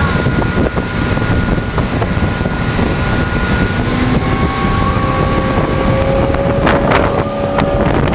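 Motorboat running under way, with wind buffeting the microphone and a faint steady engine whine. A short clatter of knocks comes about seven seconds in.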